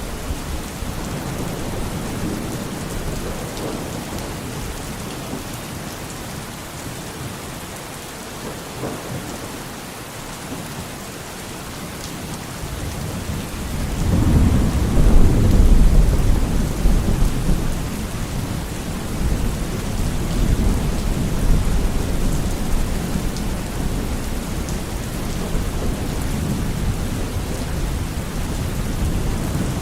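Steady heavy rain, with a deep roll of thunder that builds about halfway through, peaks for a few seconds and slowly fades into the rain.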